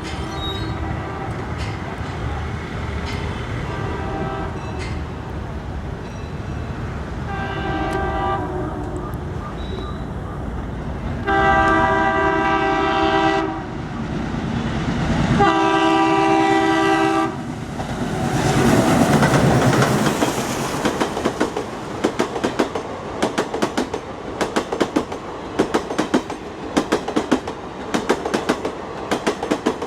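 Indian Railways Alco diesel locomotive sounding its multi-tone horn repeatedly as it approaches, over a low engine rumble. The last two blasts are the longest and loudest. The engine then passes close with a surge of noise, and the coaches follow with a rapid, regular clickety-clack of wheels over the rail joints.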